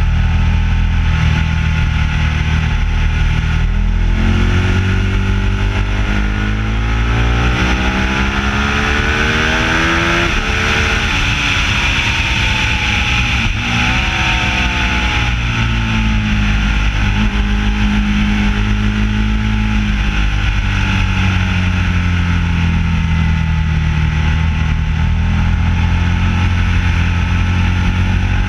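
Ducati 1199S's 1198 cc L-twin engine under way, picked up close by a bike-mounted camera. Its pitch climbs steadily for several seconds, breaks twice as it changes gear, holds and then falls as the throttle eases, and rises again near the end, with a constant rush of wind over it.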